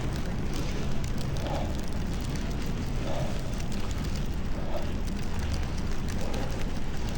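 Steady rushing noise of riding a pedal bicycle through a snowstorm: wind on the camera's microphone and tyres on the snowy street, with a faint soft sound recurring about every second and a half.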